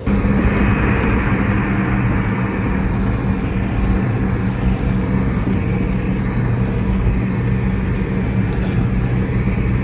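A vehicle engine running steadily under a loud even rushing noise, with a constant low hum.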